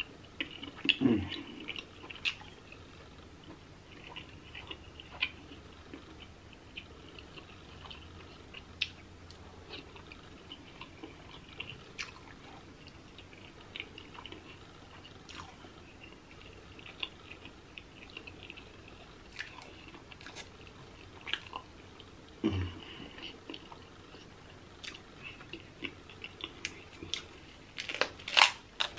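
Close-miked mouth sounds of shrimp and seafood being chewed: wet smacking and small clicks throughout, with a brief low falling hum twice. Near the end comes a louder cluster of cracks as a king crab leg's shell is broken open by hand.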